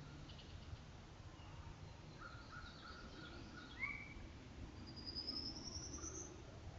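Faint wild bird calls over a steady hiss: a few short chirps, a quick upslurred note near the middle, and a thin, high rising call near the end.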